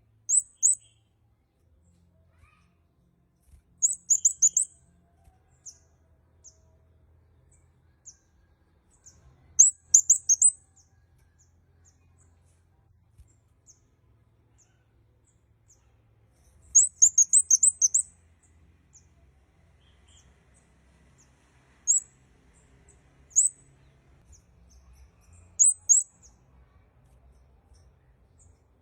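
Kemade kepala merah (red-headed kemade finch) calling: short bursts of very high, rapid chirps. The bursts come every few seconds, with a longer run of chirps about two-thirds of the way through.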